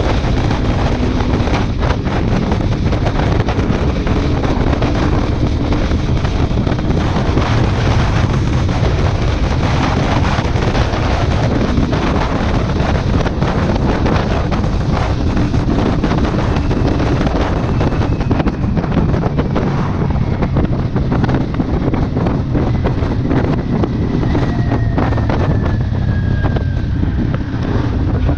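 Kawasaki Ninja 400's parallel-twin engine with an aftermarket exhaust running steadily at speed, heavily buffeted by wind noise on the microphone.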